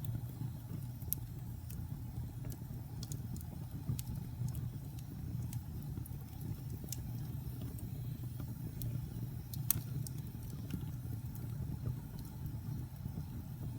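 Wood fire burning in a fireplace: a steady low rumble of flames with irregular sharp crackles and pops, one louder pop about ten seconds in.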